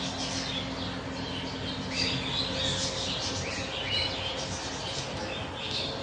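Birds chirping in short, high calls, one every second or so, over a steady low hum.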